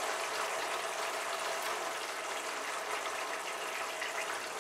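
Yogurt and poppy-seed masala sizzling steadily in a kadai as fried eggplant slices are laid into it.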